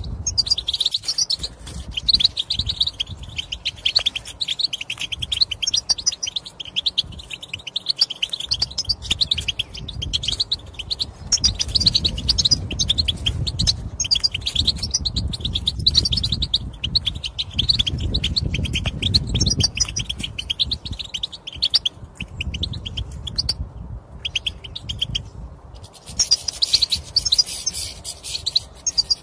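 European goldfinch chattering and twittering in rapid, almost continuous runs of short calls: the chatter and mating calls used to stir male goldfinches into song. A low rumble runs underneath.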